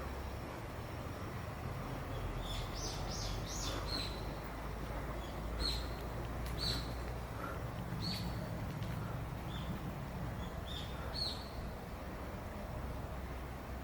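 Small bird chirping, a scatter of short high chirps, some sweeping upward, over a steady low rumble.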